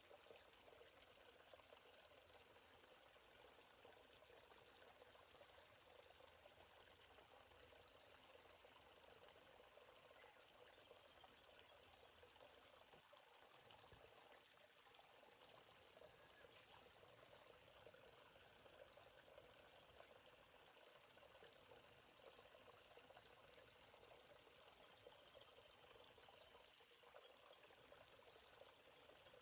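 Faint, steady, high-pitched chorus of insects, with the soft trickle of a stream underneath.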